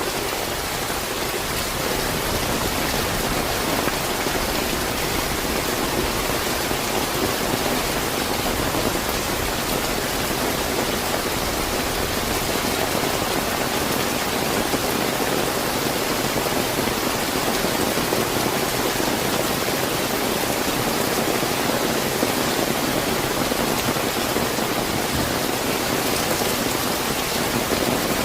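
Steady moderately heavy rain falling, an even, unbroken hiss of drops with no thunder.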